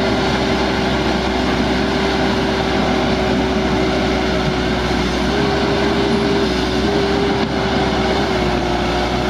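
Excavator engine running steadily with a constant whine that steps up slightly in pitch about five seconds in and drops back a second later, over a rumble and a hiss of wind or surf.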